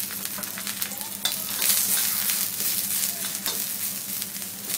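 Garlic cloves and ginger sizzling in hot oil among browned sliced onions in a black pan, stirred with a spatula that scrapes and clicks against the pan. The hiss swells a little about two seconds in, with a steady low hum underneath.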